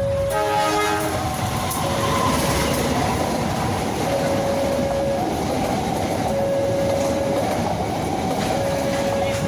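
A train passing close by with steady rumbling and clattering wheels, after a short horn blast just after the start. A two-tone warning alternates low and high about once a second, typical of a level-crossing alarm.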